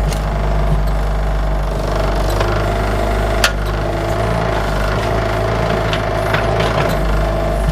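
Bobcat 331 mini excavator's diesel engine running steadily, with scattered sharp knocks over it, the loudest about three and a half seconds in.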